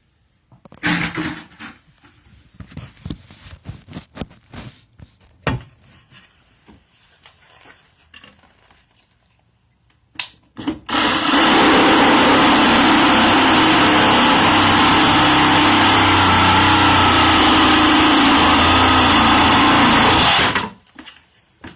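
Scattered clicks and knocks of the tool being handled, then a HYCHIKA 20V cordless reciprocating saw runs steadily and loudly for about ten seconds before stopping.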